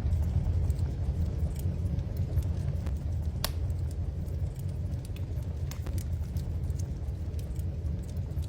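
Wood fire in a fireplace crackling: scattered sharp pops and snaps over a steady low rumble, the loudest pop about three and a half seconds in.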